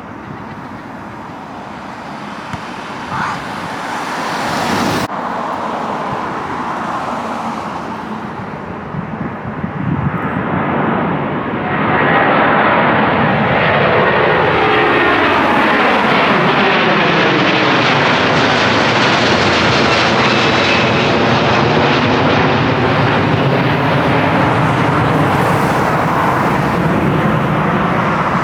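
Widebody jet airliner climbing out low overhead after takeoff. Its engine roar builds from about ten seconds in and stays loud, with the rushing noise sweeping down and back up in pitch as it passes.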